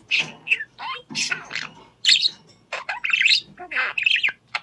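Parrot calling: a quick series of short, high chirps and calls, some sliding up or down in pitch.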